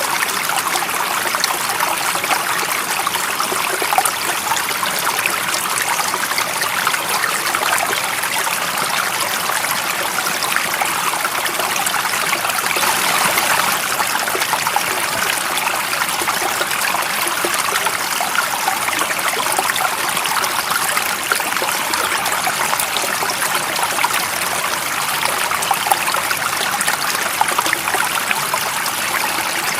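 Water running in a stream, a steady, unbroken rushing with a fine trickling texture.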